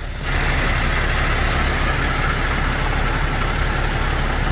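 Heavy truck diesel engine idling with a steady low rumble. A steady hiss cuts in suddenly just after the start and holds.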